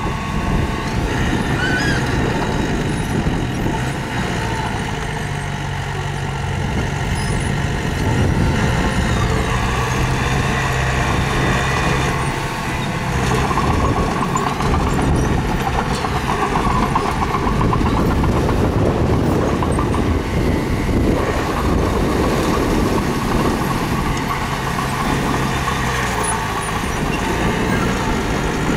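Mini bulldozer's diesel engine running steadily under working load, its pitch stepping up and down several times as it works.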